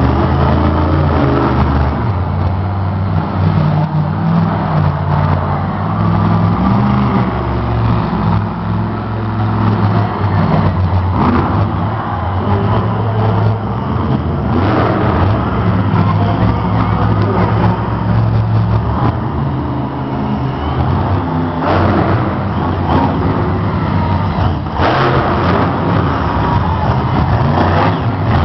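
Monster truck engines running loud and revving, their pitch stepping up and down again and again.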